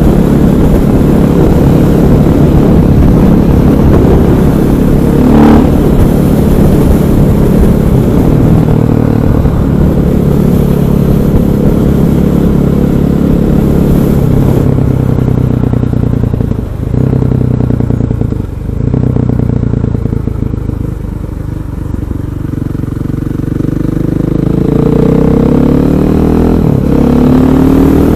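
KTM 500 EXC supermoto's single-cylinder four-stroke engine running under way. The engine note drops briefly twice past the middle, eases off for a moment, then climbs in pitch as it accelerates near the end.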